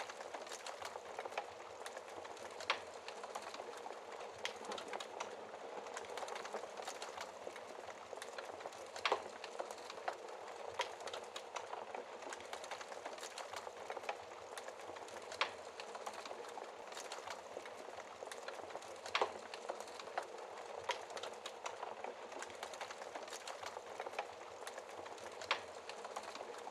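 Wood fire in a fireplace crackling, with many small crackles and five louder sharp pops spread through, over an even steady hiss of rain.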